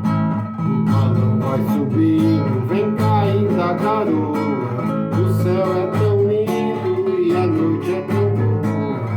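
Acoustic guitar strummed in a steady rhythm, with a wavering voice carrying the melody over it.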